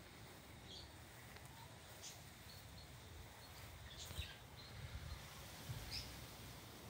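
Faint outdoor garden ambience with scattered short high bird chirps. A few soft low bumps come around the middle.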